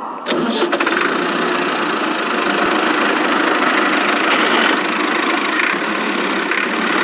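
Tractor engine running steadily with a rough, knocking chug, starting abruptly just as the speech ends.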